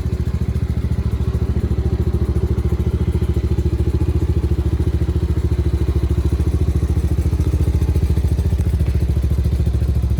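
Small single-cylinder off-road engine idling steadily up close, with a quick, even putter.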